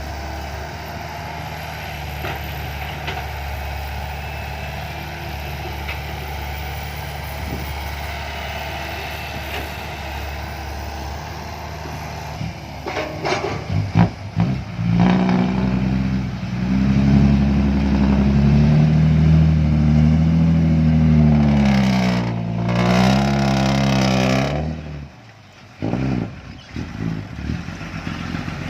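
Loaded six-wheel dump truck's diesel engine running steadily, then working hard under load up a sticky clay slope about halfway through, its note rising and falling as it strains. The loud engine note drops off abruptly near the end.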